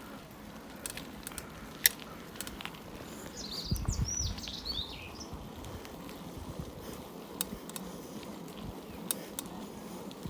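Bicycle riding along a path: steady rolling and wind noise with scattered sharp ticks and clicks, the loudest about two seconds in. A bird calls briefly with a few quick chirping notes a few seconds in.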